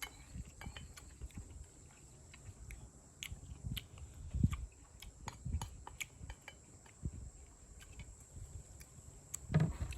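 Scattered light clicks and taps of spoons and chopsticks against metal dishes and the cauldron-lid pan while eating, with a few duller knocks, over a steady faint high-pitched whine.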